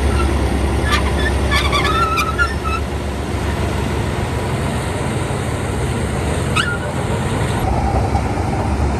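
Heavy diesel engine of earthmoving machinery running steadily with a low rumble. There are a few brief high tones about two seconds in and a short rising squeak about six and a half seconds in.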